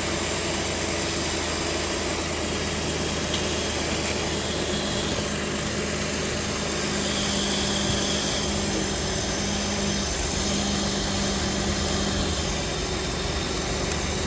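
A 2008 Jeep Grand Cherokee's 4.7-litre V8 idling steadily under the open hood, its newly fitted alternator charging without the screaming whine of the failed one.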